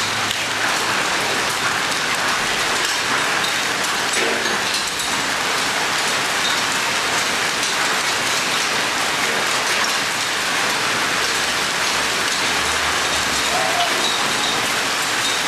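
Rain pouring down steadily in an even, unbroken hiss.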